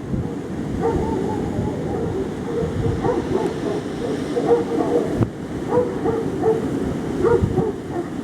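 Gale-force wind buffeting the microphone with a steady low rumble. Over it come short pitched calls repeated several times a second, in clusters throughout.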